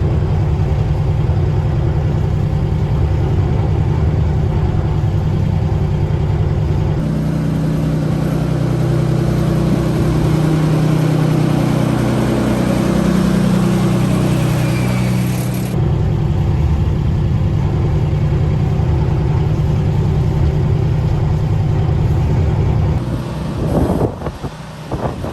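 Engine of a small Planet diesel locomotive running under power, heard from inside the cab, its note rising to a higher pitch about a quarter of the way in and settling back down a little past the middle. Near the end the engine note falls away.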